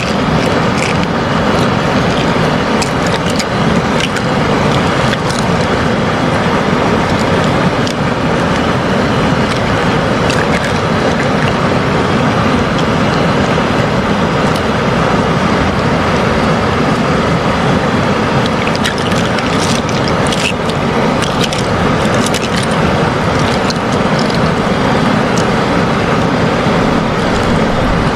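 A steady, even noise with a faint hum under it, with scattered small clicks.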